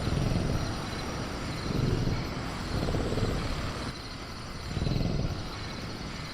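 Synthetic night-jungle ambience: a steady chirring of crickets and a low rumble that swells four times, with no roar or cage rattle in this stretch.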